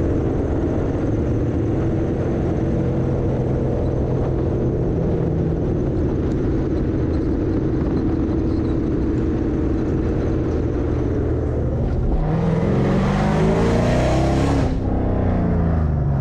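Car engine running with a steady rumble, then revved hard about twelve seconds in, its pitch climbing and then falling back as it settles.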